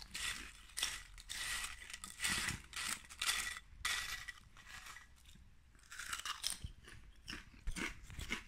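A person chewing crunchy food, with irregular crunches every half second or so.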